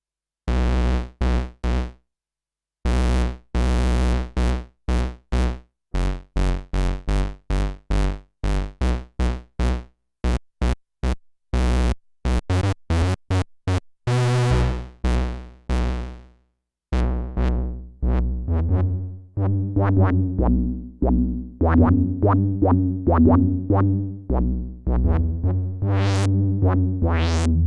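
Sequential OB-6 analog synthesizer, dry, playing a pulse-width-modulated bass patch. It starts with short, clipped notes in a rhythmic run, holds a longer note about halfway through, then moves to denser, overlapping notes that ring on longer.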